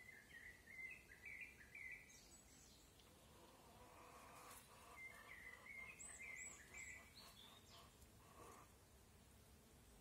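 Faint songbird singing: two short runs of quick chirping notes, one at the start and another about five seconds in, with three thin high notes near the second run.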